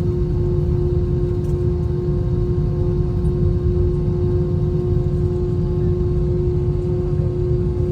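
Airbus A321 cabin noise heard from a seat by the wing: the IAE V2500 engines running with a steady low rumble and a steady hum over it.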